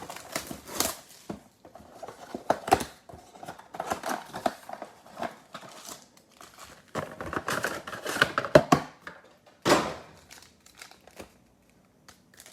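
A sealed box of trading cards being opened by hand: plastic wrap crinkling and packaging tearing in irregular bursts, with sharp cracks and snaps, one louder crack near the end.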